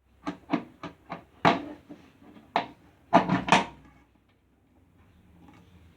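Mechanical clicks and clunks from working the controls of a National Panasonic SG-1030L: four quick clicks, two louder single clunks, then three heavy clunks in quick succession about halfway through, after which a faint low hum remains.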